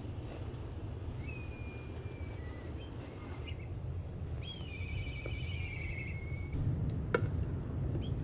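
A bird calling: a thin whistle about a second in, then a longer wavering, warbling call around the middle, over a steady low rumble. A single sharp click near the end.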